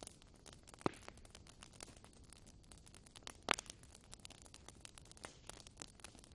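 Wood fire burning in a fireplace: irregular crackles over a soft hiss, with two louder pops, about a second in and about three and a half seconds in.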